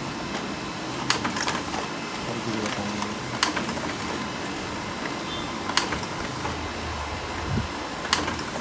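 Canon MF4820d laser printer running a multi-page copy job: a steady running noise with a sharp click about every two and a half seconds, four in all, as sheet after sheet is fed through. It is a test run to check that the paper now feeds without jamming.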